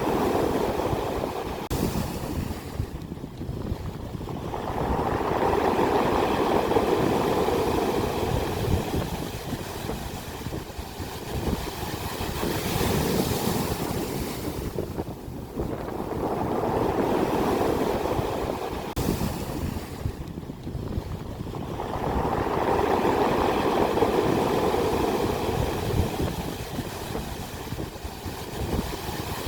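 Sea waves breaking on the shore in repeated surges, each rush swelling and fading over several seconds.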